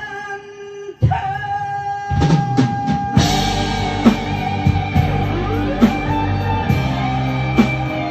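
Live band music: a long held guitar note, then a drum fill about two seconds in, and from about three seconds in the full band plays on with drum kit and guitar keeping a steady beat.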